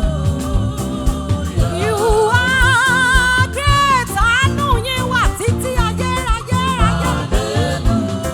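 Live gospel worship music with a band playing a steady beat under it. About two seconds in, a singer holds long wavering notes and runs without clear words.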